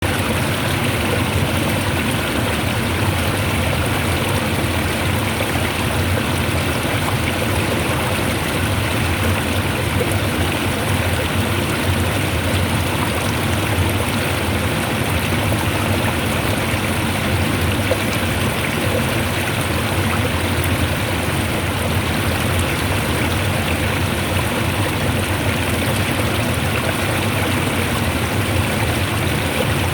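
Fast-flowing stream water rushing steadily, a dense, even white-noise-like sound.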